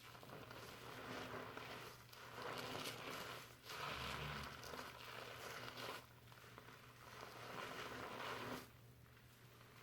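Fingers scrubbing and rubbing foamy shampooed hair, a crackly rustling that swells and fades in strokes of a second or two.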